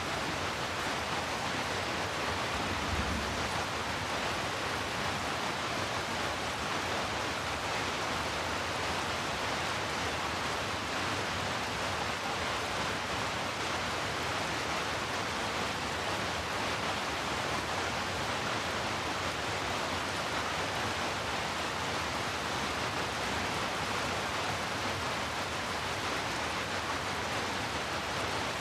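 Steady rain, heard as a continuous, even hiss with no single drops or changes standing out.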